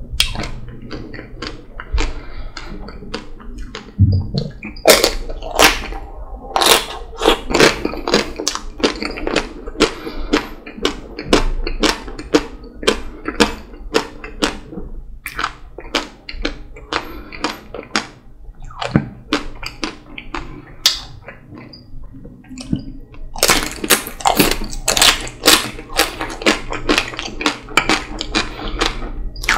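Close-up eating sounds: chewing a chocolate-coated ice cream bite with wet mouth clicks and smacks. Near the end, a dense run of crackling as the chocolate shell of a Magnum Double Raspberry ice cream bar is bitten and chewed.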